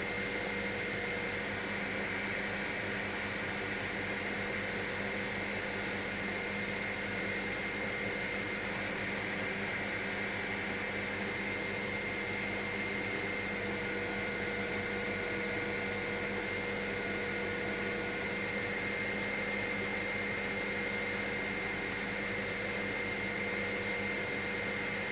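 Helicopter in cruising flight heard from inside the cabin: a steady drone of engine and rotor with a constant high whine over a lower hum.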